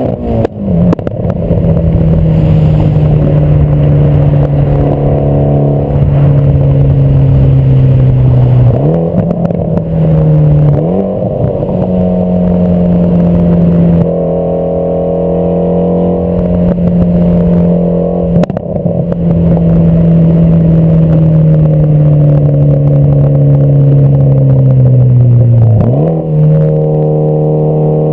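Mitsubishi Lancer Evolution X's turbocharged 2.0-litre four-cylinder running loud through a catless test pipe and AMS cat-back exhaust. The engine note holds fairly steady for long stretches, drifting slowly, with a few quick jumps in pitch.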